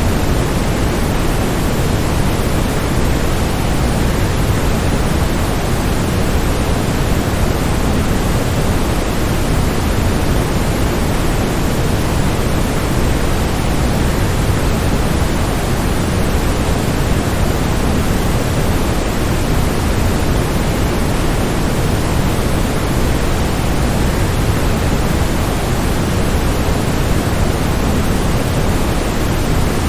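Waterfall's rushing water as a steady, unbroken noise, heaviest in the low range, with no splashes or changes standing out.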